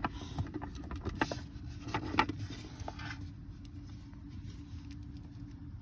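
Scattered light taps and clicks of small plastic toys being handled, most of them in the first three seconds, over a steady low hum.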